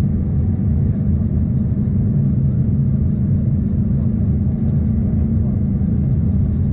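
Steady low cabin rumble inside an Embraer ERJ-140 regional jet, holding an even level throughout.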